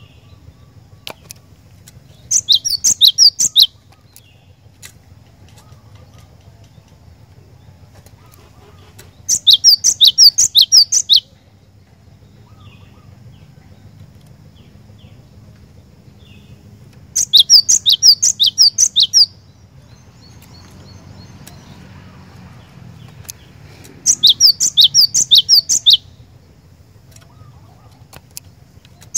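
Cinereous tit (glatik batu) singing four loud bursts of song. Each burst is a fast run of repeated high, sharp notes lasting about a second and a half to two seconds, with pauses of about five to six seconds between them.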